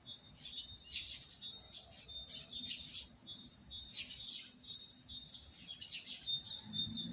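Songbirds singing: short bright phrases of chirps and quick trills, repeated about every second or so.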